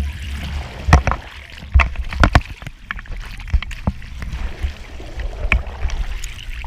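Water splashing and lapping, with irregular sharp knocks and clicks over a low rumble.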